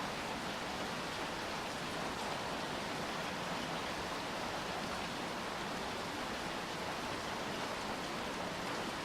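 Steady rain, an even hiss of drops falling on hard surfaces with no single drops standing out.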